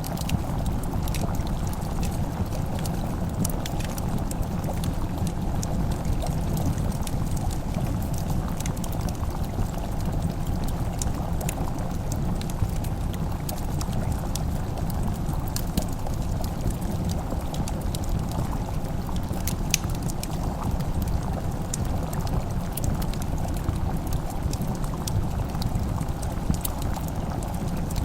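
Wood fire crackling, with irregular sharp pops and snaps over a steady low rumble, layered with the bubbling of a simmering pot.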